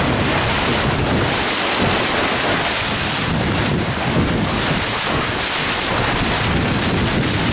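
Steady wind noise buffeting the microphone over water rushing along a sailboat's hull under way.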